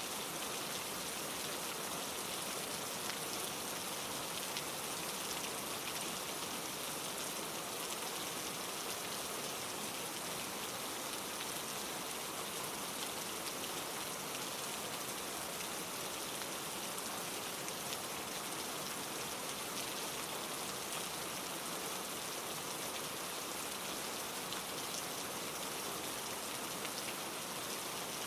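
Steady rain falling: an even hiss of many fine drops.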